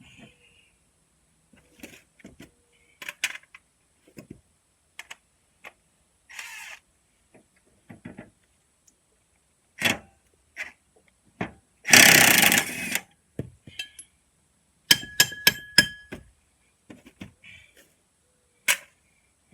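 Metal tools and parts clinking and knocking during work on a riding mower's cutting deck. There is a loud burst of noise lasting about a second past the middle, then a quick run of sharp, ringing metal clinks.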